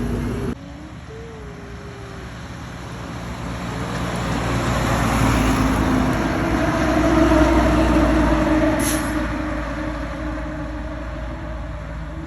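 A truck drives past: its engine hum and road noise grow louder over several seconds, peak about two thirds of the way through, then fade away. A brief sharp click comes just after the loudest point.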